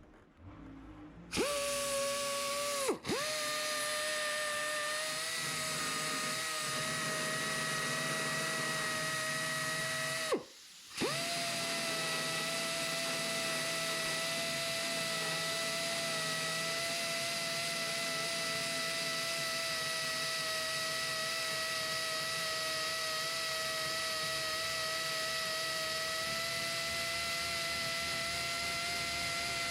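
High-speed rotary power tool running with a steady high whine. It stops and spins back up briefly about three seconds in, then stops again for about half a second at about ten seconds before running steadily on.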